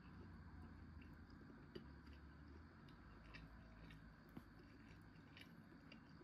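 Faint chewing: scattered small mouth clicks of someone eating, over a low steady hum.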